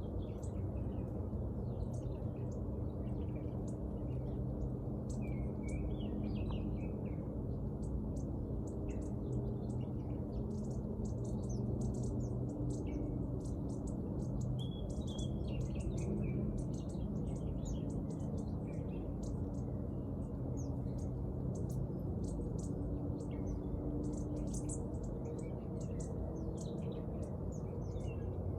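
Many small birds chirping and twittering in quick, overlapping short calls, over a steady low rumble.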